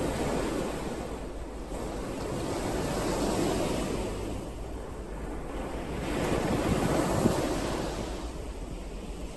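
Ocean waves breaking and washing in, swelling and falling back about every three to four seconds.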